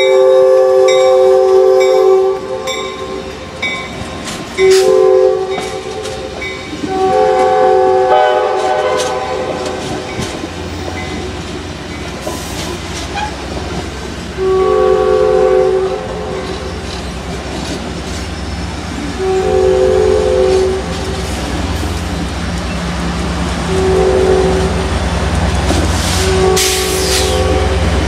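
A departing Amtrak passenger train sounds its multi-chime air horn in a series of blasts, some long and some short, while the cars roll past with clicking wheels on the rail joints. Toward the end the deep rumble of the diesel locomotive pushing at the rear grows as it comes by.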